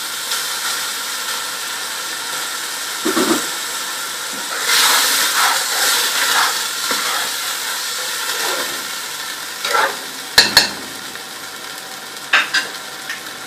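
Onion, garlic and tomato masala sizzling in oil in a cooking pot as it is stirred, with a louder stretch of hissing a few seconds in. A spoon knocks against the pot several times.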